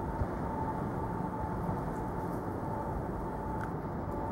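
Steady low rumble and hum of a 125 series electric train standing at the platform, with a thin, unchanging tone just under 1 kHz above it.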